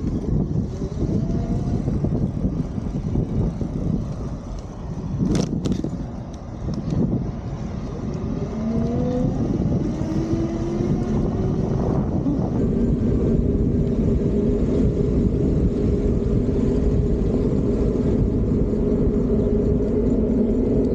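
Fiido D3 Pro electric bike's hub motor whining as the bike pulls away: the pitch rises for a few seconds, then holds steady, over wind and tyre rumble. A sharp click comes about five seconds in.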